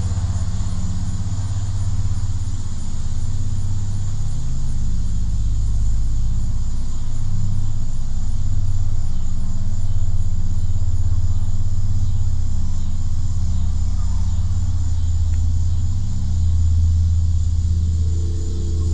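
Loud, steady low rumbling drone with slowly wavering hum tones, the kind of sound passed around as the mysterious 2012 'strange sounds' in the sky. Near the end a higher hum joins in.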